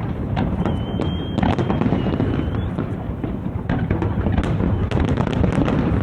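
Large fireworks display going off in a continuous barrage: many sharp bangs and crackles over a steady low rumble. Two short high whistles sound in the first half.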